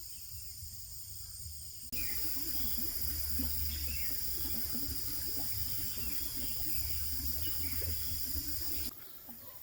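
Running water, a steady rush that starts abruptly about two seconds in and cuts off suddenly about a second before the end.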